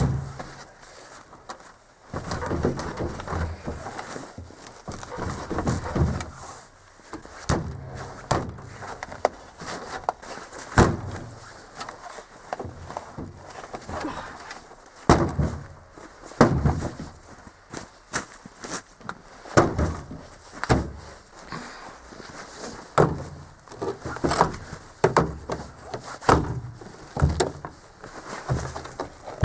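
Irregular knocks, clunks and rattles, one or several a second, from a frozen, storm-wrecked washing machine.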